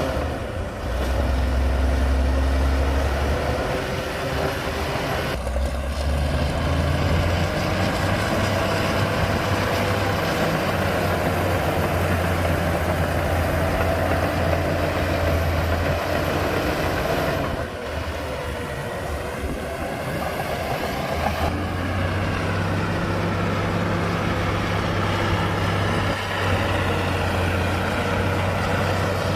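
Heavy diesel engines of earthmoving machinery, a bulldozer and dump trucks, running steadily with the load and pitch shifting a little over the time.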